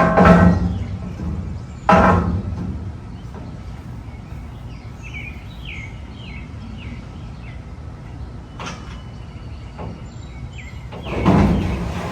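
Small birds chirping in short repeated notes, with three loud thumps: one at the start, one about two seconds in and one near the end.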